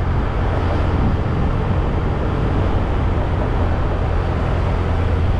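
Motorcycle under way on a road: a steady engine drone with wind and road noise, holding an even level.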